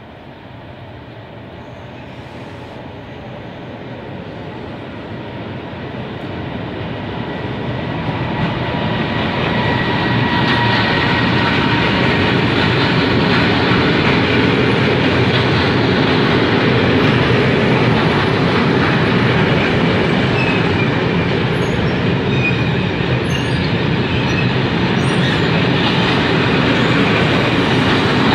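Freight train of covered sliding-wall wagons, hauled by an electric locomotive, approaching and passing close by. The rumble of wheels on the rails grows steadily louder over the first ten seconds or so, then holds as a loud, steady rolling noise while the wagons go past.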